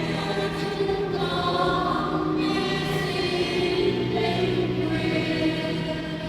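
Choir singing a Catholic hymn in long, held notes over a steady low accompaniment.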